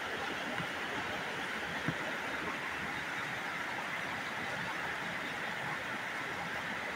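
Heavy rain falling steadily onto standing floodwater and roofs, a constant even hiss. A single light knock sounds about two seconds in.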